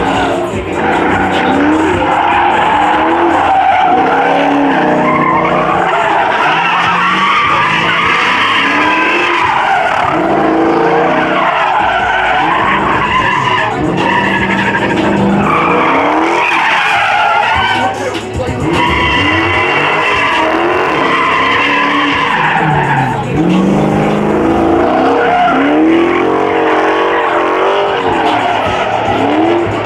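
Muscle car engine revving up and down over and over, with tyres squealing and spinning in a burnout.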